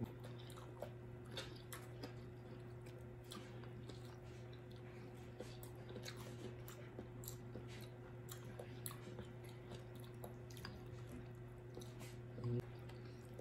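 Faint chewing and small wet mouth sounds of people eating, with scattered little clicks and crackles as crab is picked apart by hand, over a steady low hum.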